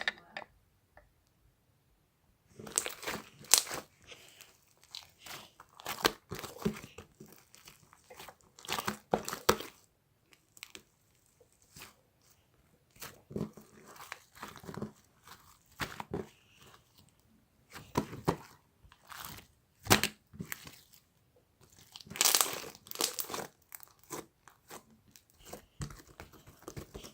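Irregular crinkling and crunching noises, close up, in uneven bursts with short pauses between them.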